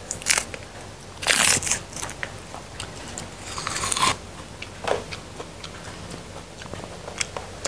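Close-up crunching and chewing of raw lamtoro (pete cina) seeds and pods, with a louder crunch about a second and a half in and another around four seconds, among small clicks of the pods being split and handled.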